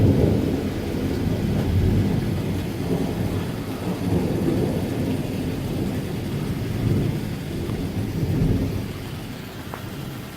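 Thunder rolling in a long, deep rumble that swells again about eight seconds in and fades toward the end.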